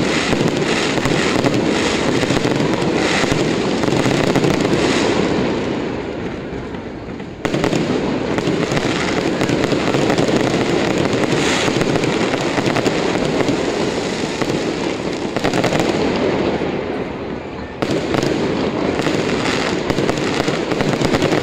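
Aerial fireworks display: many shells bursting in quick succession over a continuous crackle. The sound fades and then jumps back up suddenly twice, about a third and four-fifths of the way through.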